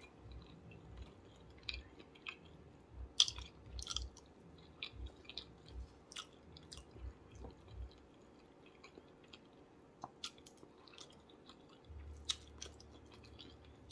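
Close-miked, faint chewing of a person eating, with soft low thumps of the jaw and scattered small wet mouth clicks.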